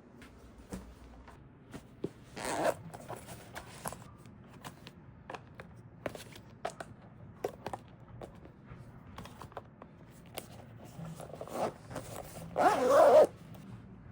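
Handling noises: scattered small clicks and knocks, with two short rasps, one about two and a half seconds in and a louder one near the end.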